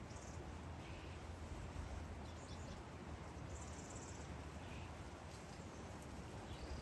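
A few faint, short bird chirps and brief trills scattered over a steady low hum and background hiss.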